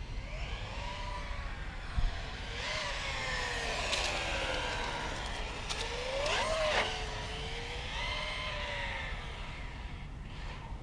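Electric motor and drivetrain of an Axial Yeti Score RC trophy truck whining, the pitch rising and falling with the throttle as it is driven. There is a short knock about two seconds in and a quick sharp rev about six and a half seconds in.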